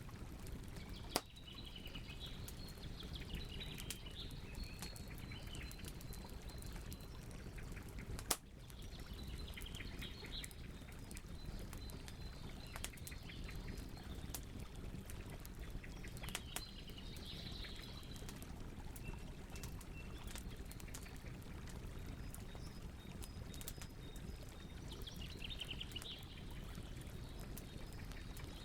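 Campfire crackling steadily with many small crackles and two sharp pops, about a second in and about eight seconds in. Birds chirp in short bursts every several seconds, over a thin steady chirring of crickets.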